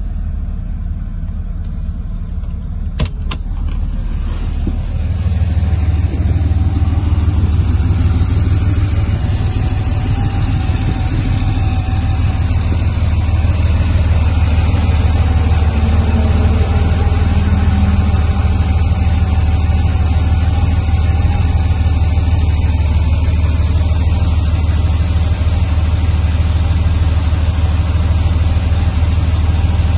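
1978 Porsche 911 Turbo (930)'s air-cooled 3.3-litre turbocharged flat-six idling steadily, growing louder about five seconds in. A single click sounds about three seconds in.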